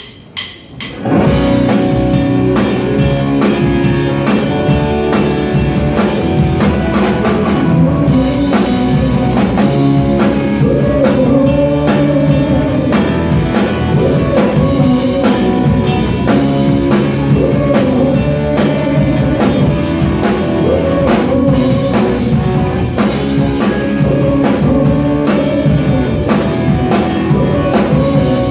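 Live rock band playing, with drum kit and electric guitar, starting together about a second in after a few sharp hits; a melody line weaves over a steady beat.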